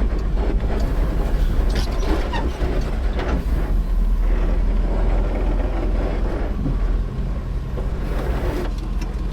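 Off-road vehicle engine running steadily while driving a rough dirt trail, with frequent knocks and rattles from the vehicle jolting over the ground.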